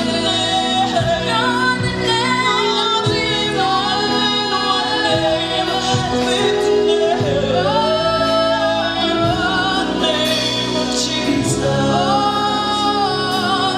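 Gospel worship song: female voices singing long held, gliding notes over a steady instrumental accompaniment.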